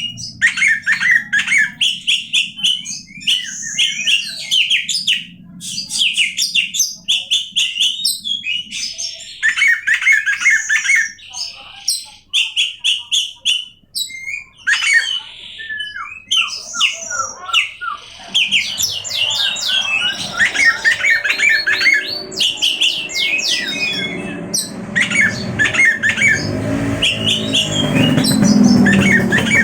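Oriental magpie-robin (kacer) singing a long run of rapid, varied phrases of whistles, trills and harsh notes. A low hum builds underneath from about two-thirds of the way in.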